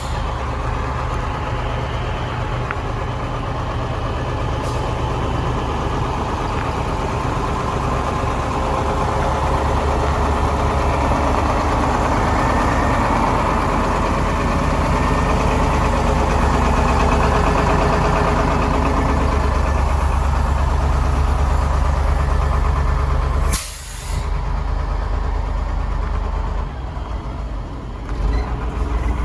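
Engine of a 1987 Chevrolet flatbed truck running steadily at idle, with a brief break about two-thirds of the way through.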